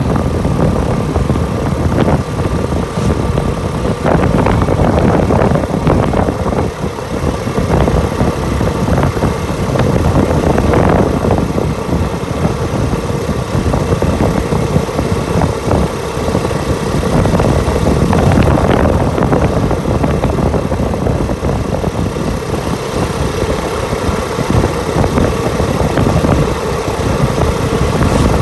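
Motorcycle engine running steadily while riding, with a dense low rumble that rises and falls a little throughout.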